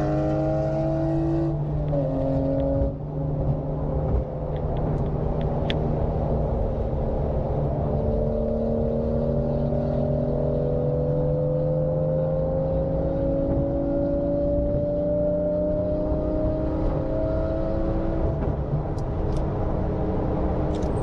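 Porsche 911 (992) flat-six engine running while the car drives, its pitch dropping about two seconds in and then rising slowly and steadily as it gathers speed. The car is in reduced-power limp mode after a check-engine warning, which the owner says keeps the engine from revving high.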